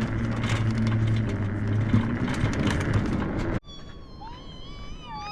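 Wind rushing over the microphone on an open beach, with a steady low hum underneath. It cuts off abruptly about three and a half seconds in, and a quiet stretch follows with a thin, high call that rises and falls.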